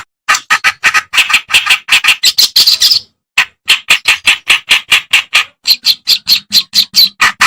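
Kerak basi, a reed warbler, singing a fast, unbroken run of short, harsh, chattering notes, about four or five a second, with a brief pause about three seconds in.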